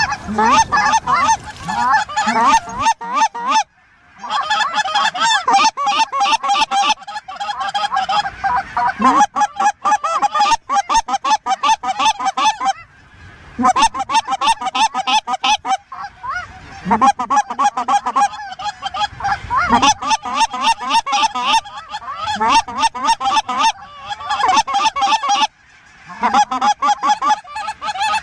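Geese honking in a loud, dense chorus of rapid overlapping calls, with brief lulls three times.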